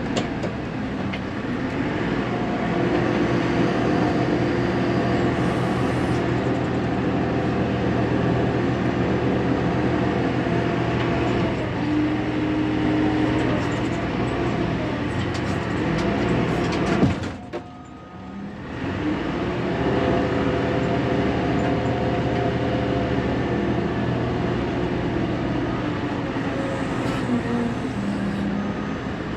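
Diesel engine of a 1999 Fermec TLK760 backhoe loader heard from inside its cab, revving up and down in long swells as it works the loader. About two-thirds through the engine sound drops away sharply for a second or two, then builds back up.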